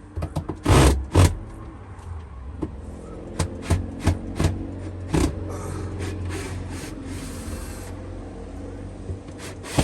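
Wooden camper-van kitchen unit being knocked and prised loose. Two heavy thumps come about a second in, then a run of sharper knocks, a few seconds of steady scraping, and more bangs near the end.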